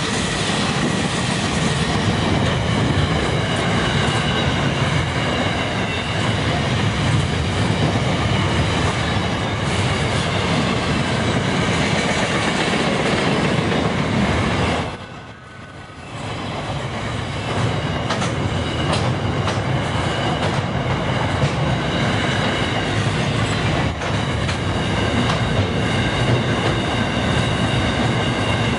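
Loaded container wagons of a long freight train rolling past at speed: a steady rumble of steel wheels on rail with clickety-clack over the rail joints and a thin, high wheel squeal. The sound drops away briefly about halfway through, then comes back at full level.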